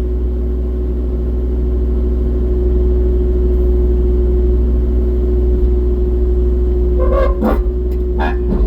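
Excavator's diesel engine running steadily under hydraulic load, with a constant whine over a deep drone. A few short sharp noises come near the end.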